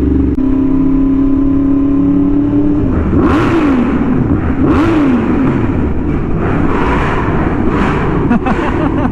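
Yamaha R1M crossplane inline-four through an SC Project exhaust, holding a steady engine note for about three seconds, then revved up and down several times in a row.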